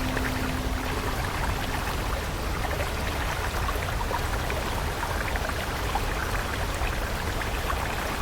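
Flowing stream water: a steady rush with many small splashes and drips. A soft held music note carries on for about the first two seconds, then stops.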